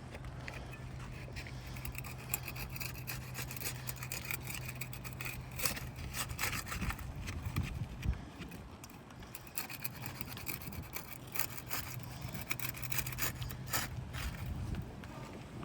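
A roof shingle being worked loose: irregular scraping, rubbing and crackling, with sharp clicks, over a steady low hum.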